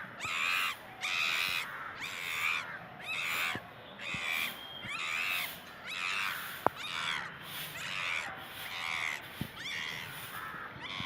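A bird calling over and over, about one short harsh call a second, with a sharp click about two-thirds of the way through.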